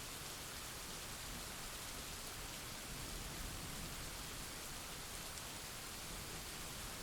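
Steady rain falling, an even hiss of drops with no thunderclap, swelling slightly in the low end a little before halfway.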